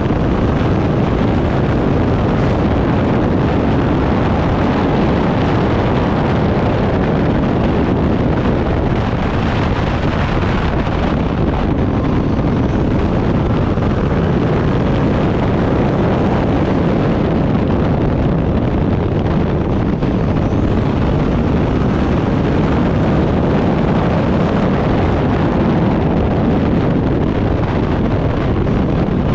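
Turbocharged Backdraft Cobra replica race car running hard on track, its engine sound loud and continuous, with wind buffeting the microphone.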